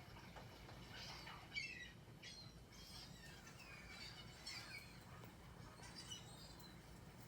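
Faint chirping and twittering of several small birds: many short, quick chirps, often falling in pitch, overlapping throughout.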